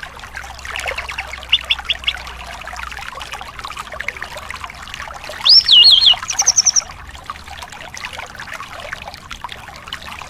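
Thrush song over a steady trickle of running water. Short whistled notes come early, then about halfway through a loud whistled phrase with a quick wavering trill.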